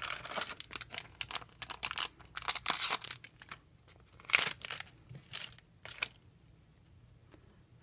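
Foil trading-card booster pack crinkling and tearing as it is opened, a dense run of crackles that stops about six seconds in.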